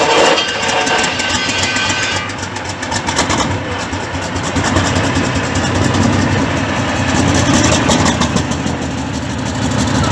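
T-34 tank's V-2 V12 diesel engine running at idle. A fine rapid rattle up high stops about two seconds in, and a heavier low rumble builds from about halfway.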